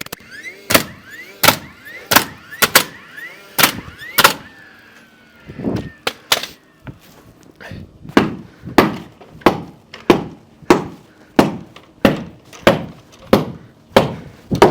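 Hammer driving nails into wood: uneven blows at first, then a steady run of strikes, about three every two seconds, through the second half.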